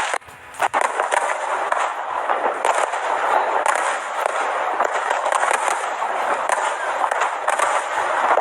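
Aerial fireworks crackling, a dense, continuous stream of rapid small pops, with a brief drop in sound just after the start.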